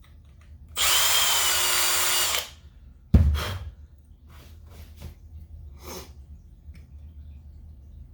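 Power drill running for about a second and a half, boring aluminium out of the heavy side of a model-engine fan flywheel to balance it. About a second later comes a loud thump, then a few light knocks and clicks.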